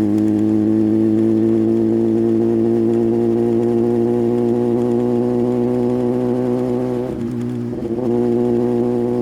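Sport motorcycle engine running at steady revs, the note holding one pitch, with a brief dip and wobble about seven to eight seconds in before it settles again.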